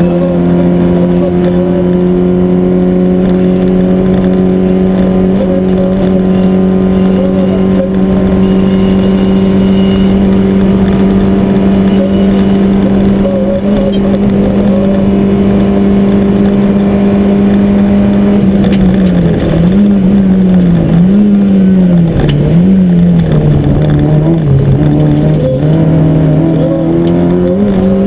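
Peugeot 205 GTI rally car's four-cylinder engine heard from inside the cockpit, shifting up just as it starts and then held at steady high revs for a long stretch. In the last third the revs dip and rise again several times, then climb near the end.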